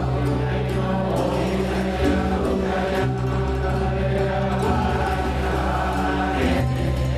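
Devotional music with chant-like, choir-like voices over sustained low notes that shift pitch every second or two.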